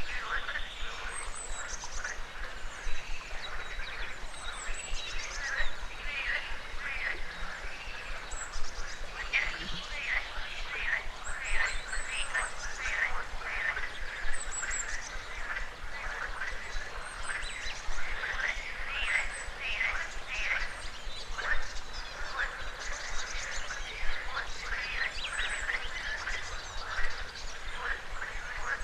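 A chorus of frogs croaking steadily, dense and overlapping, with louder single calls standing out every few seconds. High, short bird chirps sound over it every few seconds.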